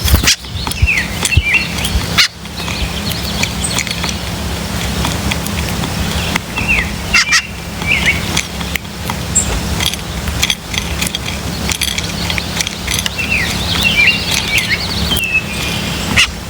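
Small birds chirping in three short clusters of quick falling notes, with scattered sharp clicks, over a steady low hum.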